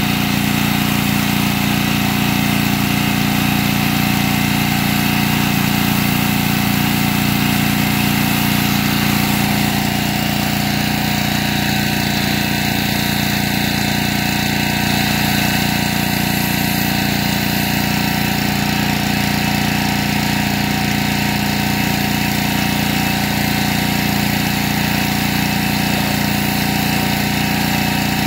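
Petrol-engine pressure washer rated 2750 psi running steadily under load over a steady hiss, its sound shifting slightly about ten seconds in.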